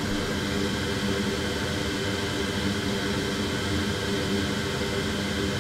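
Steady whirring of a bench fan or blower, with a low electrical hum beneath it.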